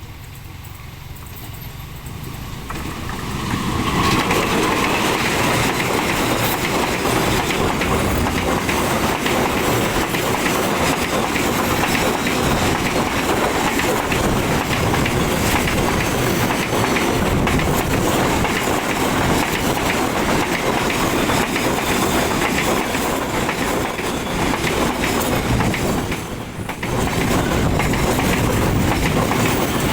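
Freight train passing close by. It swells over the first few seconds as it approaches, then gives a loud, steady rumble and clatter of wagon wheels over the rail joints, with a brief dip about 26 seconds in.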